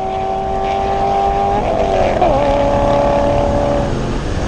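LS-family V8 race-car engine running at steady throttle. Its pitch falls sharply about two seconds in, then holds steady before easing off near the end.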